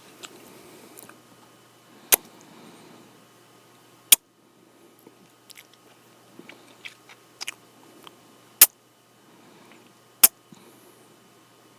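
Close-up kissing sounds: four loud, sharp lip smacks spaced a couple of seconds apart, with softer wet lip clicks and faint breaths between them.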